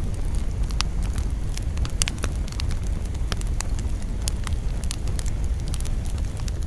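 Wood campfire burning, with frequent sharp, irregular crackles and pops of the burning wood over a steady low rumble.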